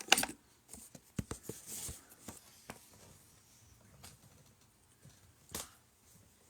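Scattered handling noises: a few sharp clicks and knocks with brief rustling, from a phone being passed over and a cardboard box being handled. The loudest knocks come right at the start and about five and a half seconds in.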